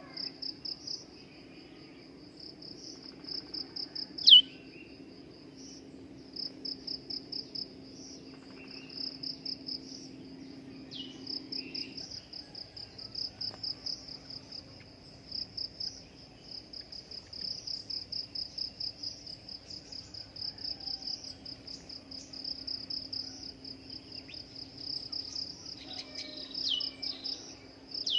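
Crickets chirping in long runs of rapid, even pulses, with a few short, sharp bird calls that sweep downward in pitch, the loudest about four seconds in and several more near the end. A faint steady low hum lies underneath.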